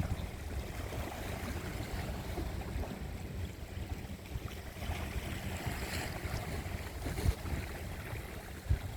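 Sea waves washing, with wind rumbling on the microphone.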